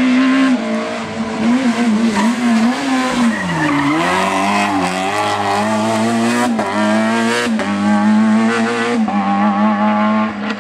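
Rally car engine running hard at high revs, its pitch rising and falling with throttle and gear changes. The pitch dips steeply about three and a half seconds in, then climbs again.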